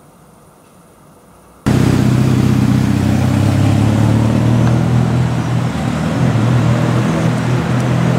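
Classic car engine running close by, loud and steady, cutting in abruptly about a second and a half in.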